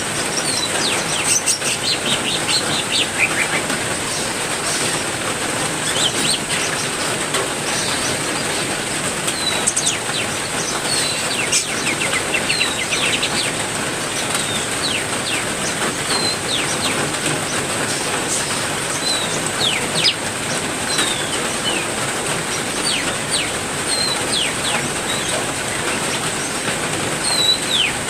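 Steady heavy rain with caged songbirds chirping throughout: many short, quick downward chirps, one every second or so, over the even hiss of the rain, with a thin, steady high-pitched tone underneath.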